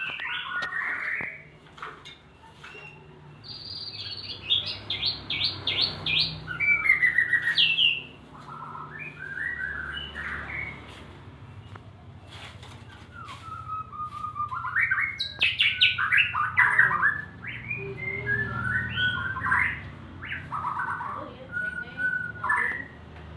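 Male white-rumped shama (murai batu) singing: loud, varied whistled phrases and rapid trills in several bouts, loudest around four to eight seconds in and again in the second half.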